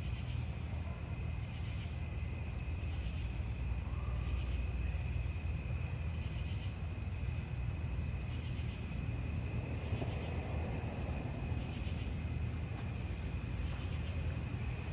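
Crickets chirping steadily at two high, even pitches, over the low, steady noise of a burning wood campfire.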